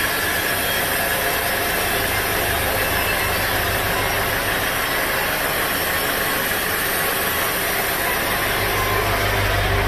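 Sawmill machinery running steadily: an engine hum under a dense, even hiss. The low hum grows stronger near the end.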